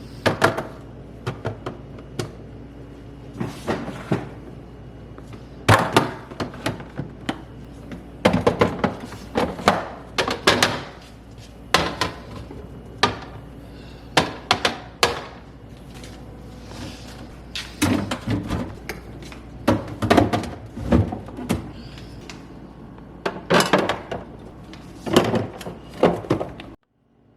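Irregular knocks and clatters of containers and fridge parts being handled and set down, some in quick runs of several, over a steady low hum that cuts off abruptly near the end.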